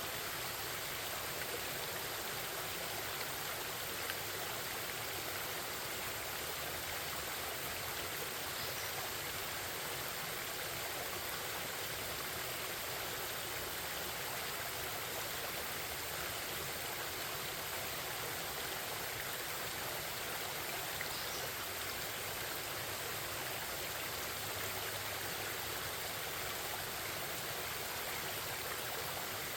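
Forest stream babbling, a steady even rush of flowing water.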